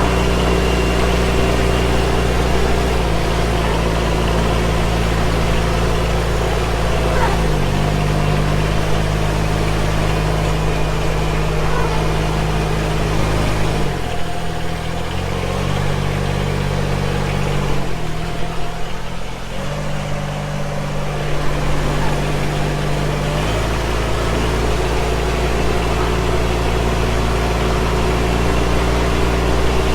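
Yanmar VP80DX rice transplanter's engine running, its speed stepping up and down several times, with a lower, rougher stretch around the middle.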